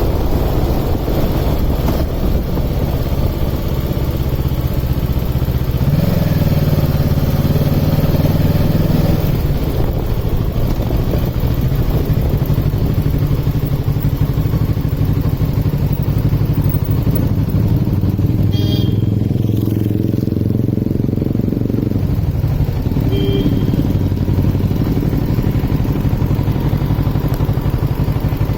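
Kawasaki Ninja motorcycle's engine and exhaust under way. The engine note steps up about six seconds in, then dips briefly and picks up again later as the rider works the throttle and gears.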